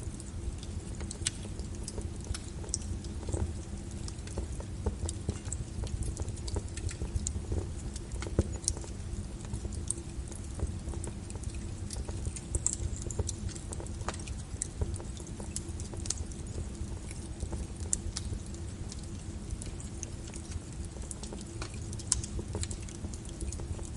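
Wood fire burning in a fireplace: frequent, irregular sharp crackles and pops of the burning wood over a steady low rumble of the flames.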